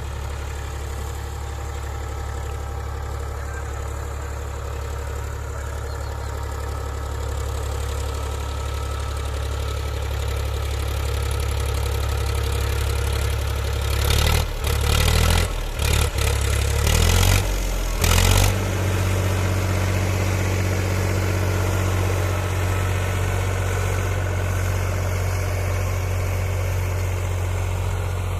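Powertrac Euro 47 tractor's diesel engine running steadily with a low drone. About halfway through come a few loud, rough bursts of noise.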